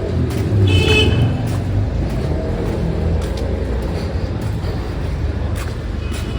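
A motor vehicle running steadily with road noise, a low rumble throughout, and a brief high-pitched tone about a second in.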